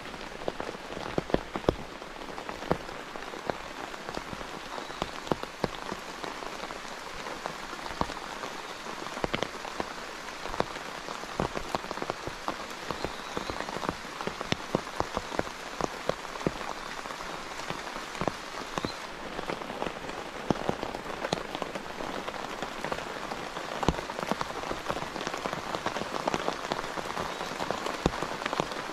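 Steady rainfall, with many sharp, irregular drop hits over a constant hiss.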